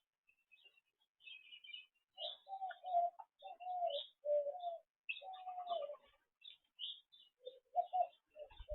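A dove cooing, a run of four low coos, over small birds chirping at a feeder.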